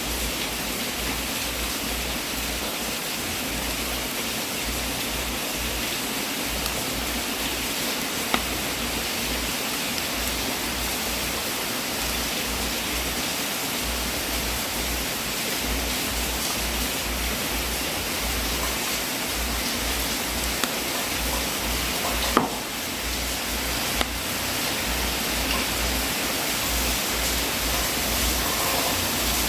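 Wood fire burning in a fireplace: a steady rushing noise with a few sharp pops, the loudest about three quarters of the way through.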